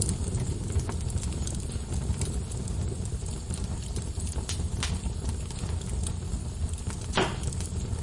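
Wood fire crackling in a fireplace: a steady low rumble of burning logs with scattered small pops and one louder crack about seven seconds in.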